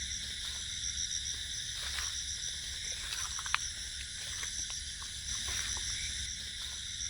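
Night insects, crickets among them, chirring steadily in several high-pitched layers, one of them pulsing rapidly, over a low rumble, with a few faint ticks, the sharpest about three and a half seconds in.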